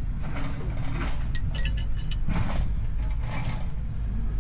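Heavy diesel engine running with a steady low rumble, with irregular metal clinks and scrapes over it, loudest about two and a half seconds in.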